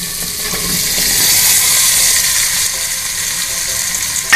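Diced red carrots tipped into hot oil and masala in a clay handi, sizzling; the hiss swells about a second in as the pieces land. A single sharp knock at the very end.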